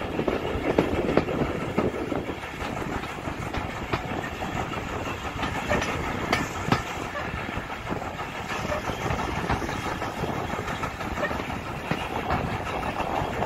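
Steam-hauled passenger train running, heard from an open carriage window: a steady rush of running noise with the wheels clicking irregularly over the rail joints.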